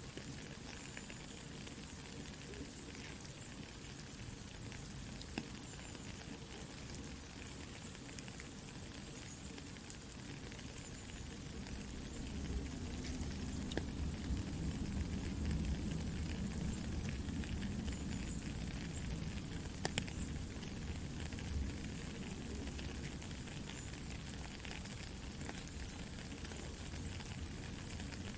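Soft rain falling steadily with a campfire crackling: an even hiss with scattered small pops. A deeper rushing grows louder from about twelve seconds in.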